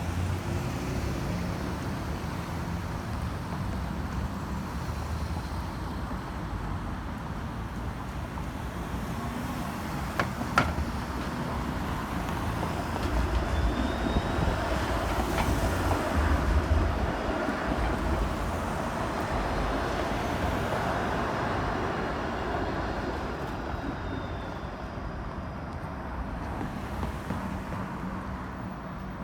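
City street traffic noise: a steady wash of passing vehicles, with a heavier vehicle rumbling past in the middle and a sharp click about ten seconds in.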